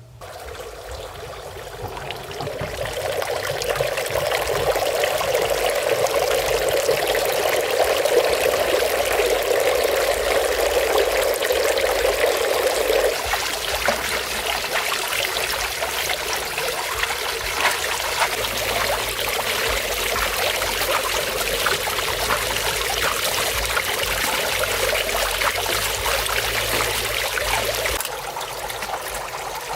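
Water pouring and trickling steadily, swelling over the first few seconds. The sound shifts to a thinner splashing about halfway through and eases off slightly near the end.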